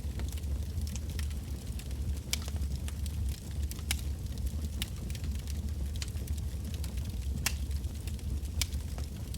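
Wood bonfire burning, with irregular sharp crackles and pops from the logs over a steady low rumble of the flames.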